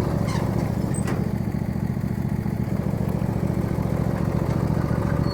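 Lawn tractor engine running steadily with a fast, even pulse, with two faint ticks about a second in.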